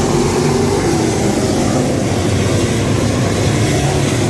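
Dirt-track modified race car engines running as one loud, steady drone.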